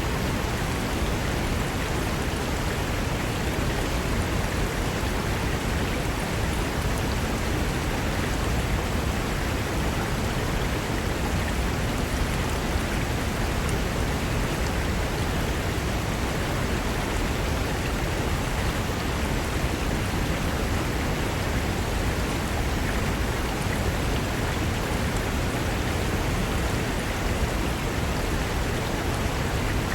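Fast mountain river rushing over rocks: a steady, dense roar of moving water.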